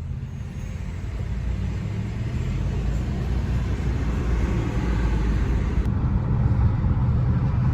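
Car engine and road noise heard from inside the cabin while driving, a steady low rumble that grows gradually louder.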